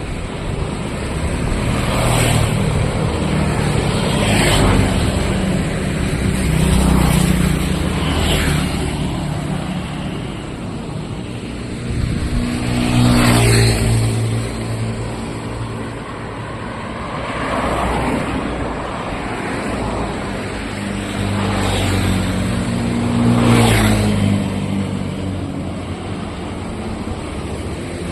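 Street traffic: motor vehicles passing close by one after another, their engines swelling and fading several times over a steady hum of road noise.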